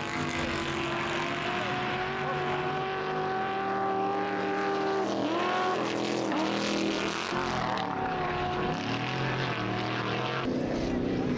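Race vehicle engines running at high, held revs. Several steady pitches sound at once and change about halfway through, with a brief pitch dip near the middle.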